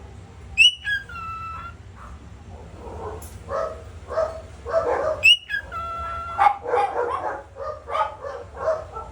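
Parrot calling: two sharp squawks, about a second in and again past the middle, each sweeping up and then holding a steady whistled tone. Between and after them comes a quick run of short, yipping, dog-like calls.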